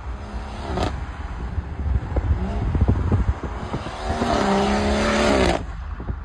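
BMW M140i's turbocharged 3.0-litre straight-six accelerating hard: the engine note rises in pitch and cuts off sharply near the end, with a low rumble underneath throughout.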